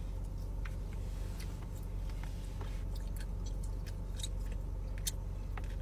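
Chewing of sticky gummy candy, with scattered soft wet mouth clicks. A steady low hum runs underneath.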